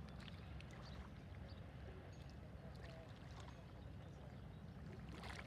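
Low steady rumble of a passing inland freight ship's diesel engine.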